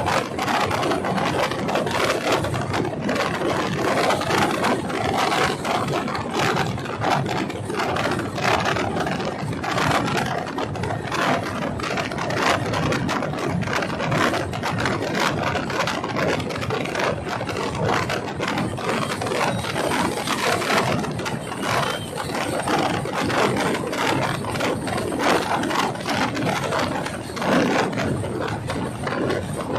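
A moving train, with continuous dense rattling and clattering.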